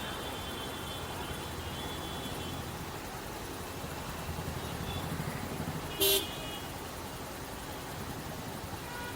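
Motorcycle running through city traffic heard from on the bike: a steady rumble of engine, wind and road noise, with one brief, loud, sharp sound about six seconds in.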